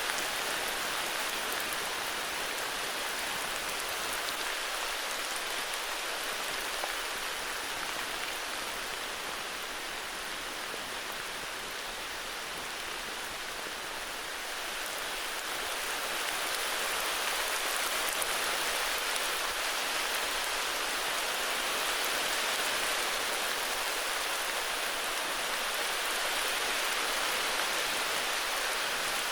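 Steady heavy rain falling on foliage and ground, a dense even hiss that swells a little past the middle.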